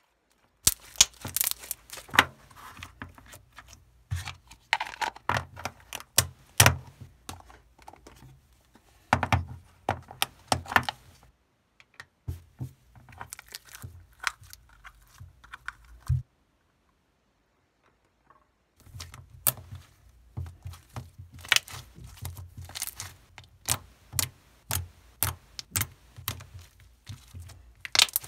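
Irregular clicks, taps and light rattles of small objects being handled close to the microphone, over a low hum, broken by two short silent gaps.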